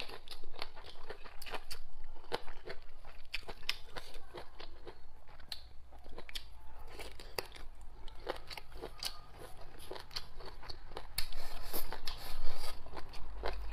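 Close-miked chewing and crunching of braised chicken offal and rice, with many short crisp clicks. Near the end it gets louder as chopsticks shovel rice from the bowl held at the mouth.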